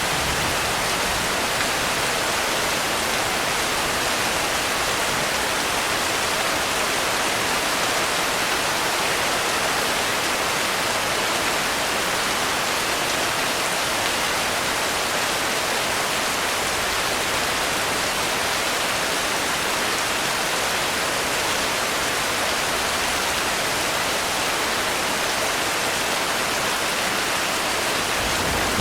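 Steady heavy rainfall, an even hiss of rain with no single drops or thunder standing out.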